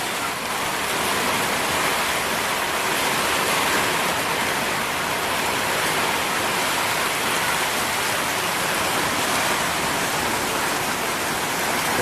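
Heavy rain falling steadily, a dense even hiss that builds a little over the first second and then holds.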